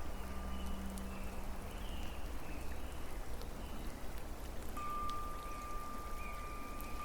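Steady rain falling, with a patter of individual drops. A soft low drone fades out about a second in, and a thin steady high tone comes in again about five seconds in, like sustained notes of gentle background music.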